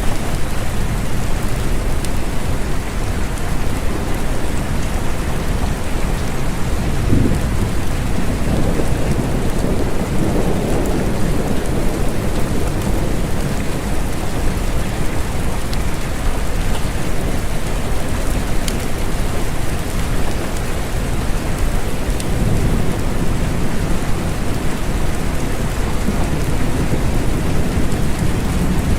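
Steady rain falling, with low rumbles of thunder that swell up a few times.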